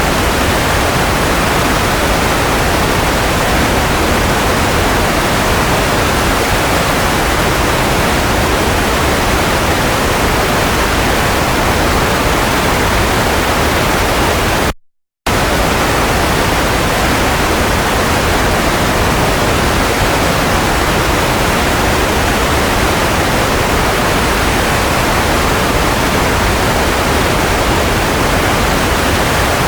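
Steady white noise: an even, unchanging hiss with no hum or rhythm. It cuts out completely for a fraction of a second about halfway through.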